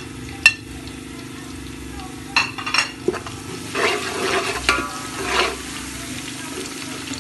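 Crushed ginger and garlic sizzling in hot oil with fried onions in a steel pot. A spatula stirs them, with scraping strokes against the pot from about two and a half seconds in.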